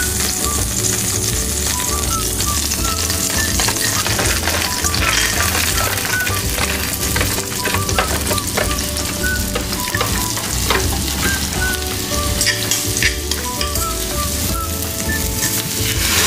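Diced Chinese sausage and dried shrimp sizzling in hot oil in a 304 stainless steel inner pot, with a metal spoon clicking and scraping against the pot as it stirs. Soft background music underneath.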